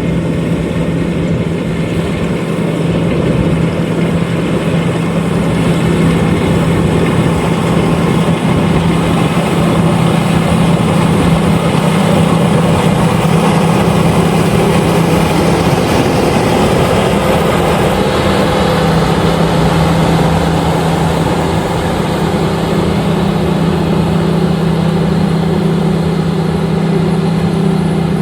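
LOVOL RG130EVO combine harvester running while harvesting rice: a loud, steady engine drone with a strong low hum. The hum wavers briefly about two-thirds of the way through.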